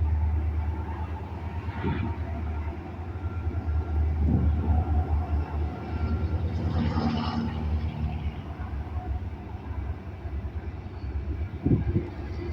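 Freight train rolling past: a steady heavy low rumble with a few scattered clanks and knocks.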